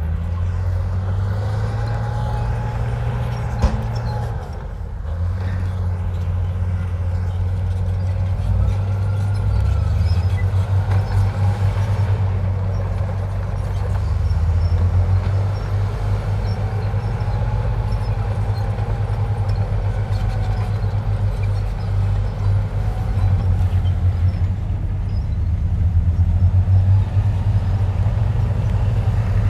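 Heavy diesel engine of a Komatsu bulldozer running steadily with a low throbbing drone that swells and eases a little, and faint whines that rise and fall.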